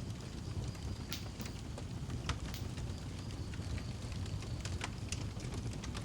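Wood fire burning in a fireplace: a steady low rumble of flames with scattered sharp crackles and pops, one louder pop a little after two seconds in.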